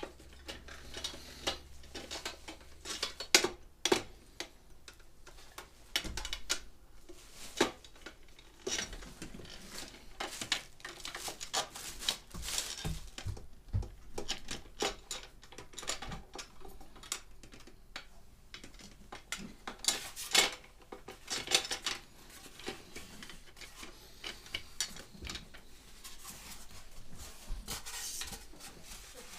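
Irregular clinks, taps and knocks of hard objects being handled, with a few sharper knocks about three and a half, seven and a half and twenty seconds in.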